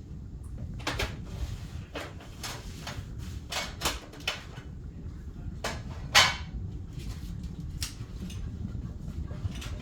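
A wobbling ceiling fan running with a steady low rumble and irregular, unevenly spaced knocks and clacks, the loudest about six seconds in.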